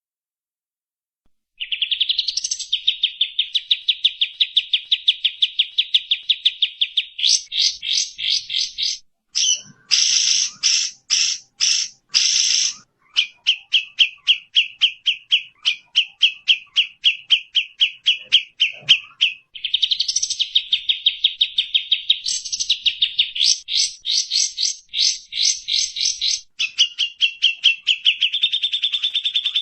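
Recorded bird calls from a songbird mastering track: long runs of rapid, evenly repeated chirps, about ten a second, starting after a brief silence. Several harsher, higher bursts come about a third of the way in.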